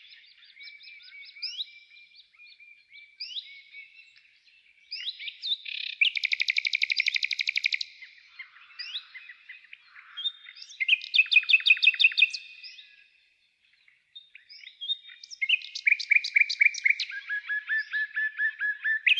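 Songbirds singing: short chirps and whistled notes broken by three fast trills of rapidly repeated notes, each lasting about one and a half to two seconds, with a brief pause before the last.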